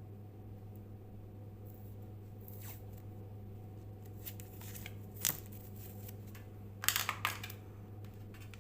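Steady low electrical hum, with a few short handling noises on top: one sharp one about five seconds in and a quick cluster near seven seconds.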